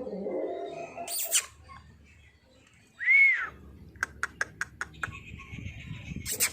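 A single short, high chirp that rises and falls, about three seconds in, with a quick run of clicks about a second later.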